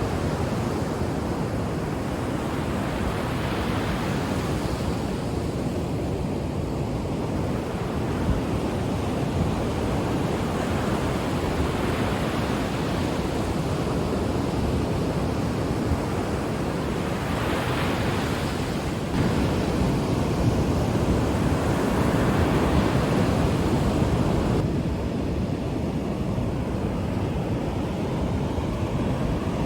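Ocean waves breaking and washing up the shore: a continuous rush of surf that swells and ebbs as each wave comes in, loudest for several seconds a little past the middle.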